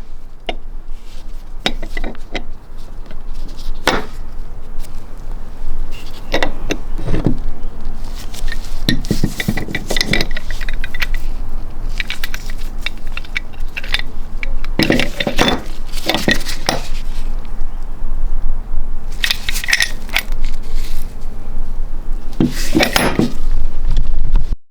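Steel monkey wrench being handled, with repeated sharp metal clinks and rattles against a hard surface, coming in clusters.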